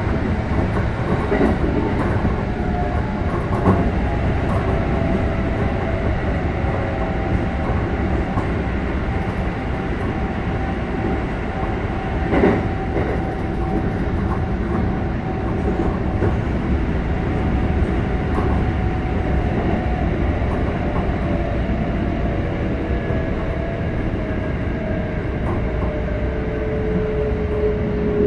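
Running sound heard inside a Keikyu 600 series electric train car with Mitsubishi GTO-VVVF drive. Wheels rumble steadily on the rails with occasional clacks over joints, one louder knock about halfway. Over this the drive's whine holds several tones that slowly fall in pitch, one dropping more steeply near the end as the train loses speed.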